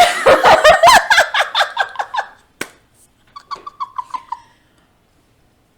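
High-pitched laughter in rapid bursts that fades out, followed by a short, quieter, quicker run of giggling, then it cuts off abruptly.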